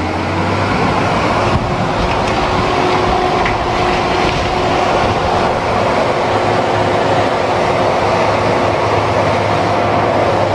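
A moving vehicle's steady running noise: a continuous rumble with a steady hum held throughout.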